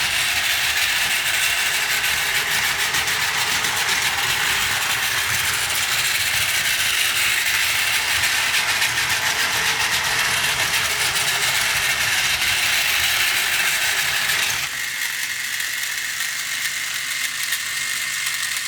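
Battery-powered Plarail toy train running on plastic track: the small motor's steady whirr with the clatter of plastic wheels and couplings over the track joints. About fifteen seconds in the sound turns quieter and thinner, and the rattle carries on.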